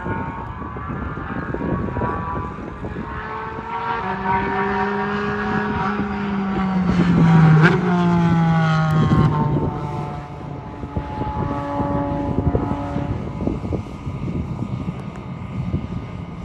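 A car's engine running at high revs as it approaches and passes by at speed. It is loudest about halfway through, where its pitch drops sharply as it goes past, then it fades away.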